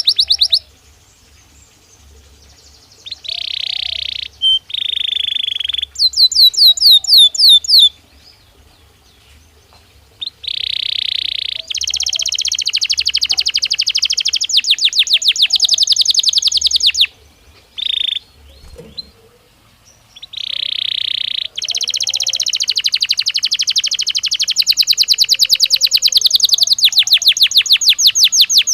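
Belgian canary singing in loud phrases of rapid trills and rolls, with short pauses between them. The longest phrases last about five seconds or more.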